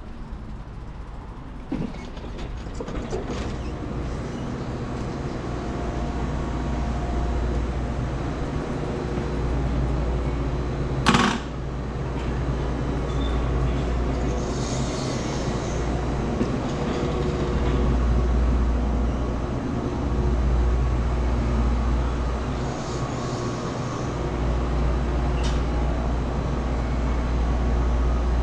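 Riding noise on a Super 73 electric bike: wind buffeting the microphone in a heavy, uneven rumble over road and tyre noise, with faint steady tones running through it. A single sharp click comes about eleven seconds in.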